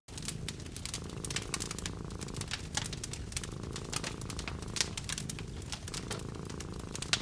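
Wood fire crackling with frequent sharp pops and snaps, over a steady low rumble of a cat purring.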